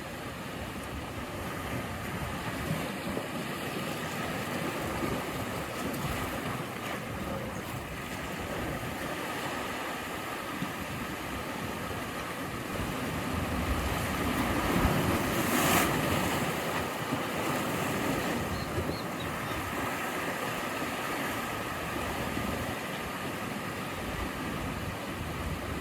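Ocean waves washing against the shore in a steady rush, swelling to a louder breaking wave about fifteen seconds in.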